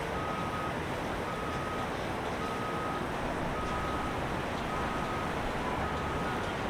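A reversing alarm beeping at an even pace, about one beep a second, over a steady background rumble.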